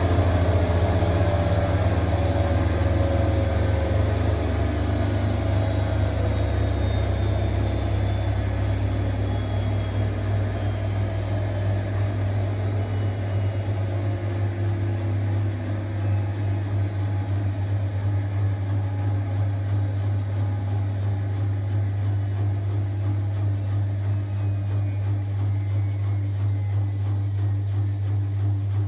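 Zanker EFX 4875 washing machine's drum spinning down from its 1800 rpm final spin: the motor whine falls steadily in pitch over a constant low hum, and the sound slowly eases off.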